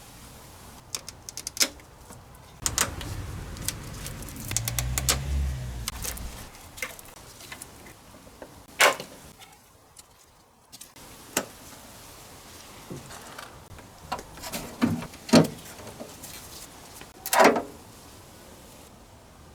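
Metal clinks and knocks of tools and parts being handled while a car's suspension is stripped, with a low rumbling hum about three to six seconds in.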